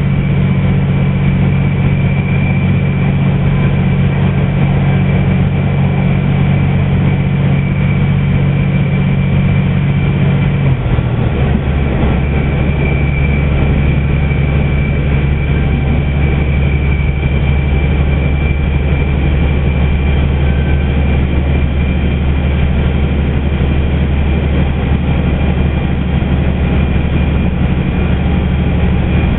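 Sanriku Railway diesel railcar running at speed through a tunnel, heard from inside the carriage: a steady diesel engine drone under loud wheel and rail rumble. About eleven seconds in, the engine note steps down to a lower pitch and holds there.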